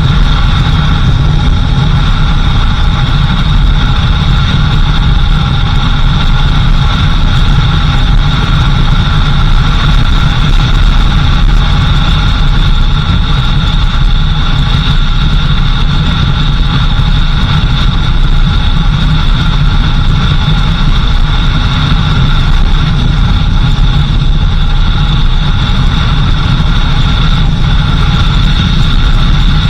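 4x4 vehicle running steadily along a dirt road: a constant, loud engine and road rumble with a few steady higher tones over it and no breaks.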